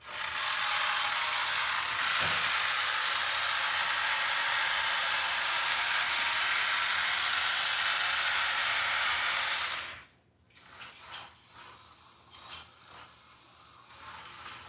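A loud, steady hiss of a jet of spray or air, lasting about ten seconds and cutting off suddenly, followed by faint clicks of small parts being handled.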